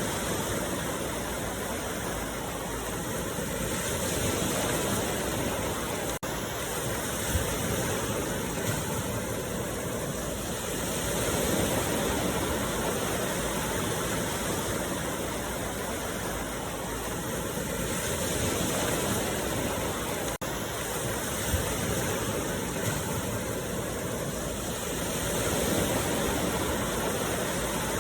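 Ocean surf: a steady wash of breaking waves, swelling and easing about every six to seven seconds, with two very short gaps in the sound.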